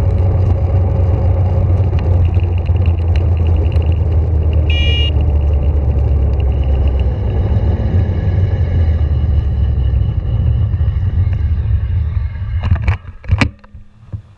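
Heavy, steady low rumble of wind and road noise while riding a scooter, with a short high beep about five seconds in. Near the end the rumble drops away abruptly and a few sharp clicks follow.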